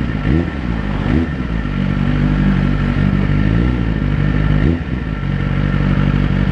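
Suzuki GSX-R1000 inline-four with a Yoshimura exhaust can, heard from the saddle on the move. The engine note rises and drops quickly twice in the first second or so, then runs steadily. It dips sharply near the five-second mark at a gear change and then settles again.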